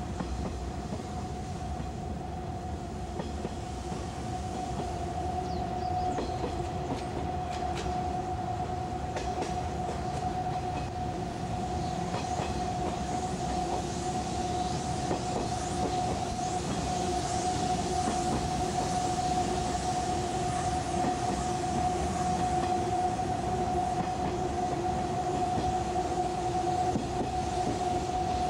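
Running noise inside a 185-series electric train car descending the Usui Pass grade: a steady rumble with two held humming notes and scattered rail-joint clicks, growing a little louder.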